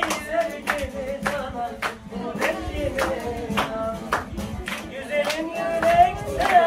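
Singing with rhythmic hand clapping on the beat, about two claps a second.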